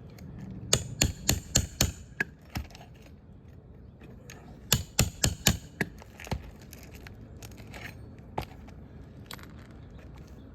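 Two quick runs of about five sharp metal taps each, a few seconds apart, with a few single taps between and after: a hammer striking a nail puller to drive it under the roofing nails holding the shingles.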